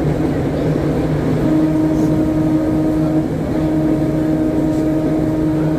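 Interurban trolley car (Philadelphia Suburban Transportation Co. car #76) running along the track, a loud steady rumble. A steady motor hum comes in about a second and a half in, drops out briefly around three seconds, then returns.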